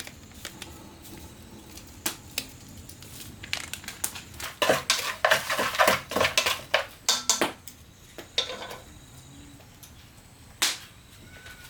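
A quick run of clattering knocks and clicks, densest in the middle, with one more single knock near the end.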